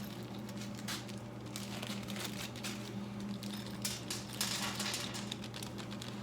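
Small electrical parts being handled: scattered light clicks and crinkling, as of wire connectors in their plastic packaging, over a steady low hum.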